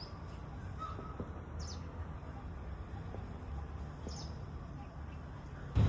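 Birds calling, with two short high chirps about two and a half seconds apart over a steady low background rumble.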